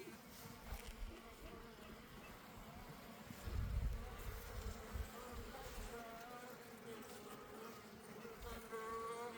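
Honeybees buzzing around an open hive during a frame inspection, a steady hum with a louder bee droning close by near the end. A low rumble of handling noise comes through about the middle.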